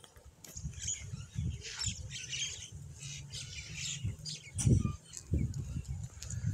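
Birds chirping and squawking outdoors, with several dull low thumps in the second half, the loudest about two-thirds of the way through.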